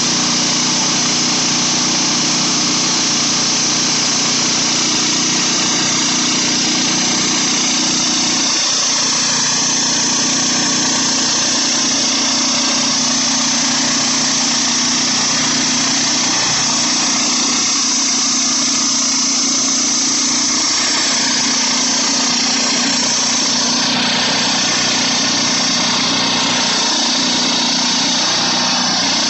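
Engine-driven 22-inch portable sawmill running steadily: a constant engine hum under a loud, continuous hiss. The hum shifts slightly about eight seconds in, and the hiss changes near the end.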